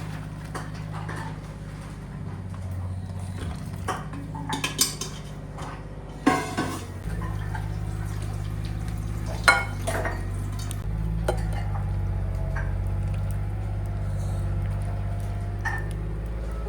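Kitchen pots, dishes and cutlery clinking now and then, over a steady low engine drone that changes pitch about seven and eleven seconds in.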